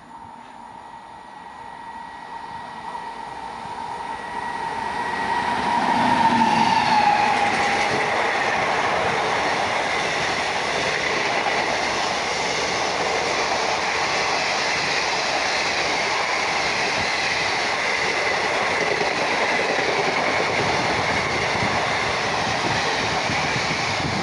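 Express passenger train hauled by a WAG-9 electric locomotive approaching and passing at speed. The sound grows over the first six seconds, with a steady tone that drops in pitch as the locomotive goes by. Then the coaches rush past with a loud, steady rumble and wheel clatter on the rails.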